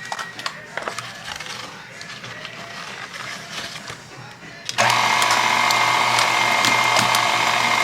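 A few faint clicks and taps, then about five seconds in an electric mixer switches on suddenly and runs at a steady speed, beating sweet potato pie filling.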